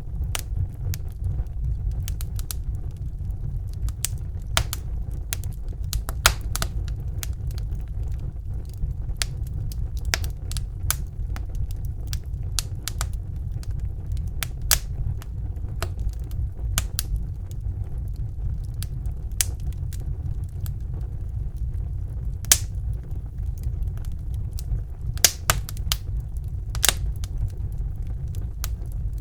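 Wood fire burning in a fireplace: irregular crackles and sharp pops over a low, steady rumble of the flames, with a few louder pops about halfway through and near the end.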